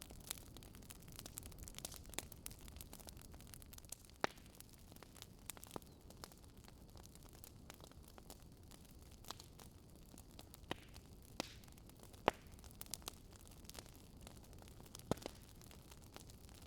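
Fireplace crackling faintly: a soft steady hiss with irregular sharp pops and snaps, the loudest a few seconds apart.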